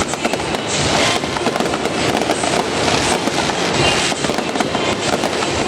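Fireworks display: a dense, continuous barrage of rapid crackling pops and bangs.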